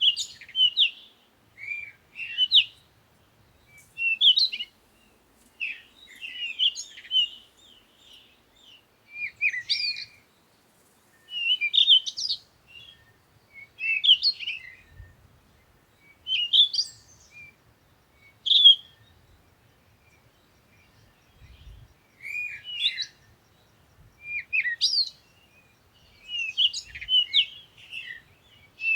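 Songbirds chirping: short phrases of a few quick notes, repeated every second or two, with a brief pause about two-thirds of the way through.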